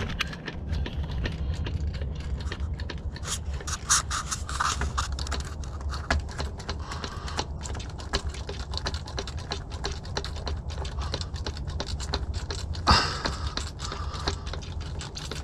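Irregular small clicks and scrapes of hands working on the truck's hydraulic clutch fittings, over a steady low hum, with a louder scrape about three-quarters of the way through.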